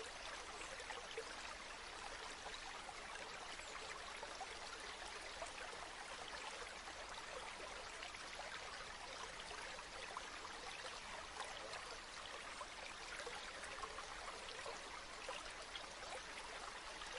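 Flowing river water: a steady, even rushing with fine trickling detail.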